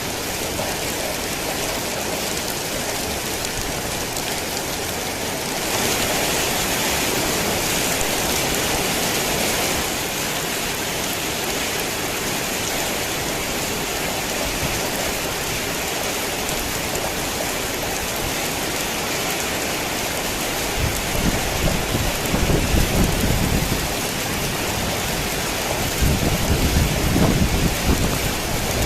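Heavy rain falling steadily, an even hiss that swells a little for a few seconds early on. Low rumbles of thunder come twice near the end.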